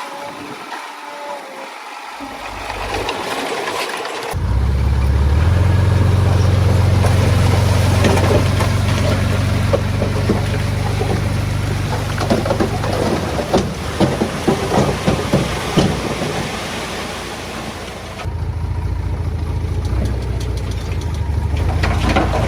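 Diesel engine of heavy earthmoving machinery running, louder from about four seconds in and holding a steady low drone. Partway through comes a run of sharp, clattering knocks, and the drone carries on under it.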